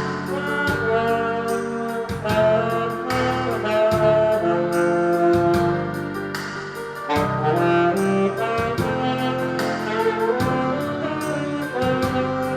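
Yamaha YAS-280 alto saxophone playing a ballad melody in held notes over a karaoke-machine backing track with a steady drum beat.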